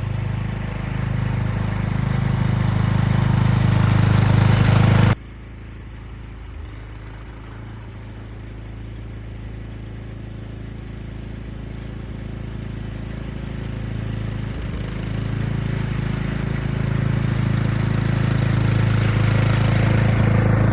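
Craftsman T210 lawn tractor engine running steadily while plowing snow. It grows louder over the first five seconds, drops suddenly to a quieter level, then builds steadily louder again toward the end.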